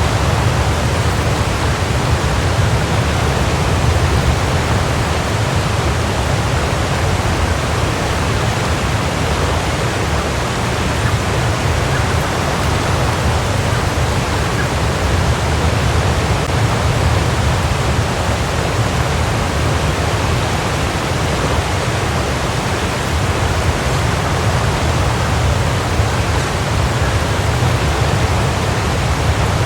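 Waterfall: a steady, unbroken rush of falling water, heaviest in its low rumble.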